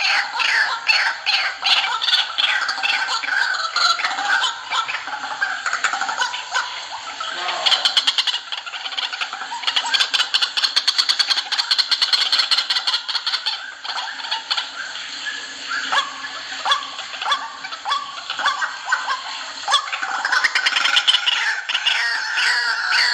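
White-breasted waterhens (ruak-ruak) calling in a continuous series of short falling notes, several a second. In the middle the calls break into a fast run of clicking notes, and the falling calls return near the end.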